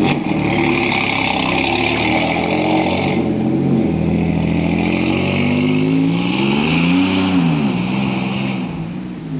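1992 Toyota pickup's 3.0-litre V6 running through a full 3-inch exhaust with a single-chamber Flowmaster muffler, blipped on the throttle. Engine speed drops back at the start, then rises and falls again about seven seconds in.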